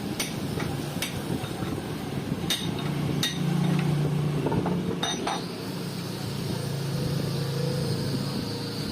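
A handful of sharp metallic clinks and taps, metal parts and tools knocking together, over a steady low workshop rumble. A thin high whine comes in about five seconds in and carries on.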